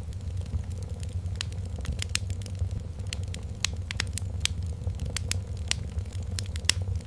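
Fireplace crackling: irregular sharp pops and snaps of burning wood, several a second, over a steady low rumble of the fire, with a faint steady tone underneath.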